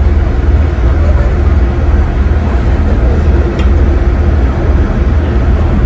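The ferry New Kasaoka running under way, heard on board: a steady, loud low rumble with a faint constant hum.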